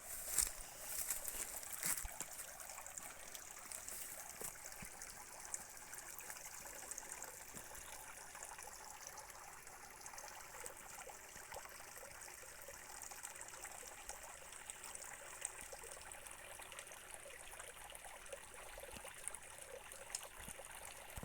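Water trickling in a small stream, a steady hiss throughout, with a few sharp knocks in the first two seconds.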